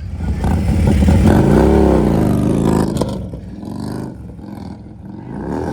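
Motorcycle engine being revved, its pitch swinging up and down several times. It is loudest in the first half and rises again near the end.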